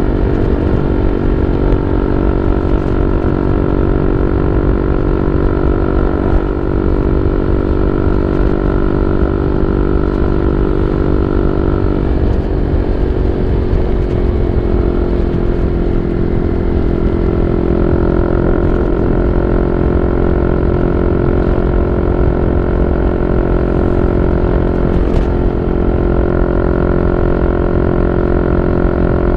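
Yamaha Y15ZR's 150cc single-cylinder four-stroke engine running through a YYPANG SD3 aftermarket exhaust, a steady, loud note whose engine speed shifts around the middle and then holds steady again.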